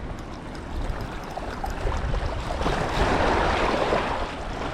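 Sea waves washing on the shore, swelling to a louder rush about three seconds in, over a steady low rumble of wind on the microphone.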